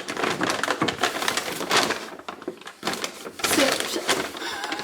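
Irregular crinkling and rustling of a bag and its packaging as groceries are taken out of it, with a short lull in the middle.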